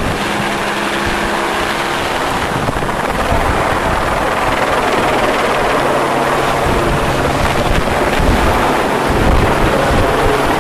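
Helicopter running close by: a loud, steady rushing noise with low steady hums, whose pitch drops about halfway through.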